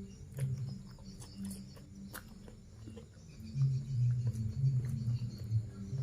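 Close-miked eating sounds: chewing with smacking and clicking mouth noises, in two stretches, the louder one starting about three and a half seconds in.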